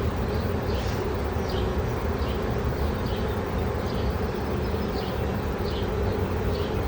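Honey bee swarm buzzing: a dense, steady hum of many bees flying close by.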